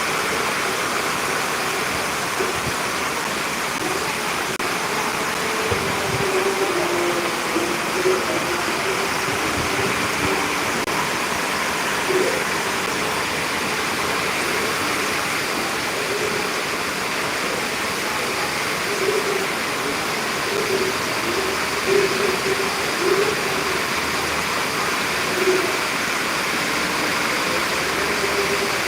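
Steady heavy rainfall, an even hiss, with faint short pitched sounds popping up now and then behind it.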